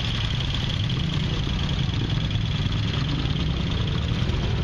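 Vincent Black Lightning's 998 cc V-twin engine idling steadily, its engine built up from newly manufactured parts.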